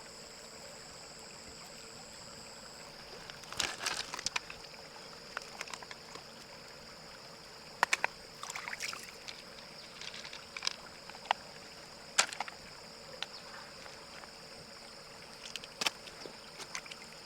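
Water sloshing and trickling, with scattered sharp clicks and knocks over a faint steady high hum.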